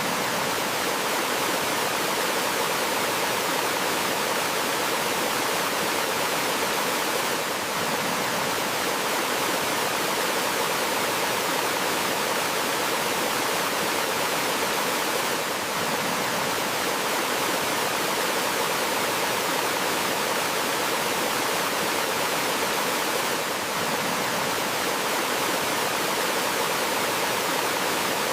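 Steady rush of a small waterfall and stream flowing over rocks, an even, unbroken wash of water noise with a slight brief dip about every eight seconds.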